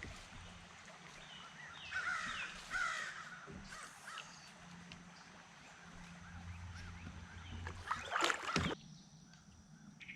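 Crow cawing, a pair of harsh caws about two and three seconds in, with a louder harsh sound near the end.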